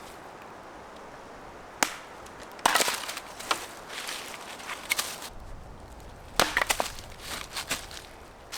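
Dry wood cracking and snapping in sharp, irregular clusters, as sticks are broken up for firewood: one sharp crack, then several bunches of quick snaps.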